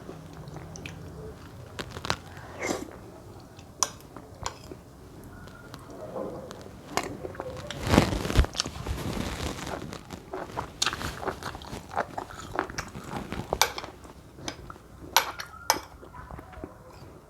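Close-miked eating of matoke (plantain) porridge: chewing and mouth sounds with scattered sharp clicks, and a louder noisy burst about eight seconds in.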